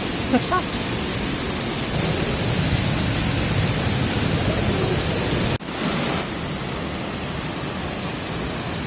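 Waterfall running high after heavy rain: a steady rush of falling water, heard close up. About halfway through it cuts briefly and continues slightly quieter.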